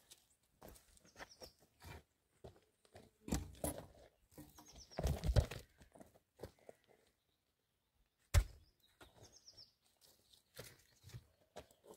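Small birds chirping in short falling trills, over irregular crunching and knocking sounds, with one sharp knock about eight seconds in.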